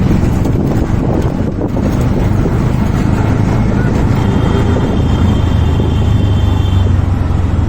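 Steady road and engine noise of a moving vehicle, a heavy low rumble, with a faint thin high tone from about halfway through.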